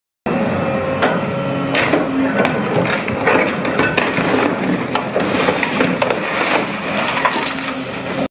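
Model RC construction machine at work: a small motor's steady hum under many sharp metallic clicks and knocks. It starts abruptly just after the beginning.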